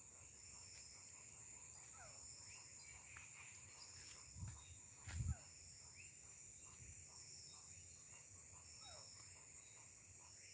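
Dusk forest sounds: a steady high-pitched insect buzz, with many short, falling chirps repeating throughout from an unidentified animal. Two low thuds come near the middle.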